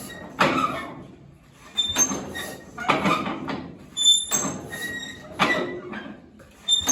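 The 1937 Massey-Harris 25's engine being turned over and firing fitfully, in about six sharp bursts a little over a second apart, each dying away. It is a hard start on the choke, with the engine running rich enough to smoke from the exhaust.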